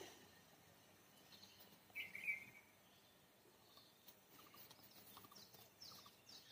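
Near-silent outdoor ambience with faint bird chirps, a few short falling ones near the end. A brief, louder high-pitched call comes about two seconds in.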